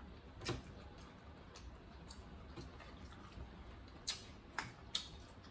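Quiet eating noises: chewing, with a few sharp clicks, one about half a second in and three close together between four and five seconds in.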